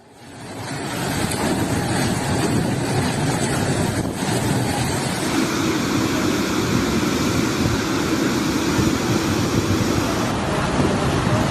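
Steady rushing noise of a storm and flash flood, fading in over about the first second and then holding even.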